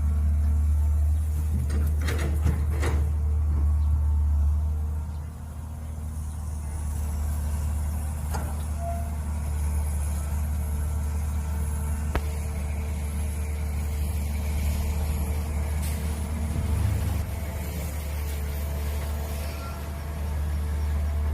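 Mini excavator engine running steadily with a low hum, with a few sharp knocks about two to three seconds in and another about twelve seconds in.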